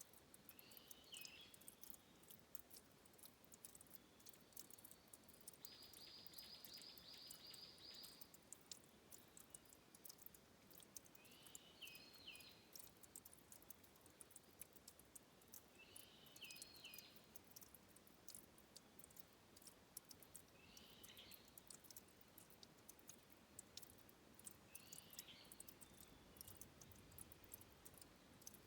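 Faint forest headwater ambience: a small bird gives a short high call about every four to five seconds, with one buzzy trill of about two and a half seconds near the start, over scattered faint ticks.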